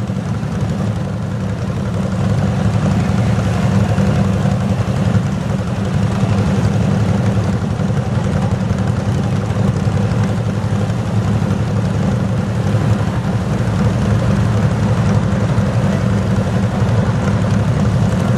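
Garden tractor engine at a tractor pull, running steadily with a low hum that barely changes in level.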